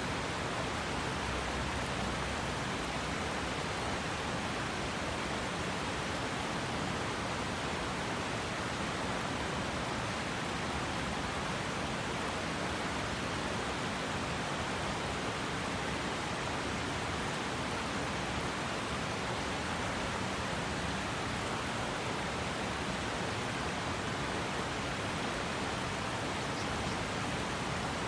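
River water rushing steadily over rocks, an even, unbroken rushing noise.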